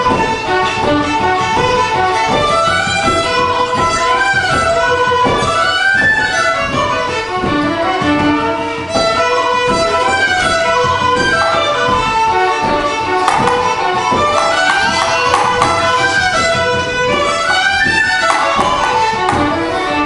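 Fiddle playing a fast Irish reel, a steady unbroken run of quick notes.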